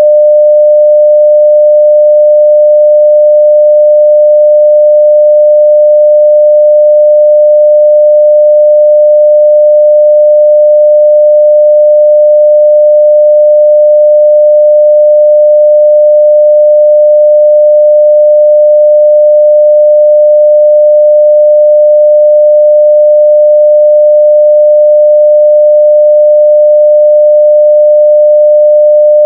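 A 600 Hz sine-wave test tone at full level (0 dB), one steady unchanging pitch.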